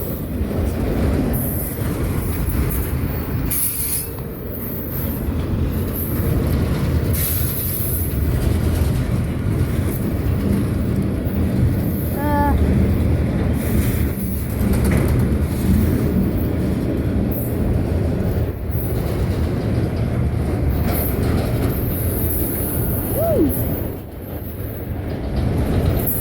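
Freight cars of a long train rolling past on the rails, a steady loud rumble of wheels on track with brief high-pitched squeals now and then.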